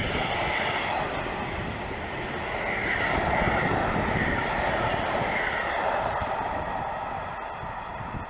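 Loaded freight hopper wagons, carrying sand, rolling past on the rails in a steady noise of wheels and running gear with a faint high squeal. The noise eases off near the end as the tail of the train draws away.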